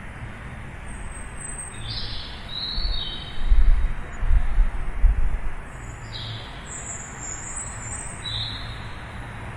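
Birds chirping in short high calls, in two clusters, over a steady background hum. A deep low rumble swells for about two seconds near the middle and is the loudest sound.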